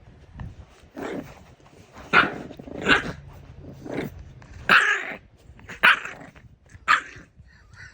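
French bulldogs play-fighting over a toy, giving short barks and growls about once a second.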